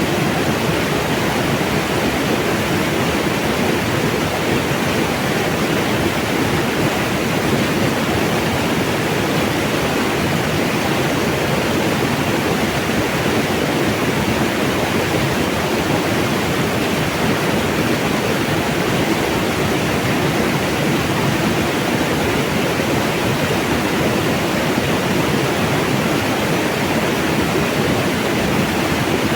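Flowing mountain water rushing steadily.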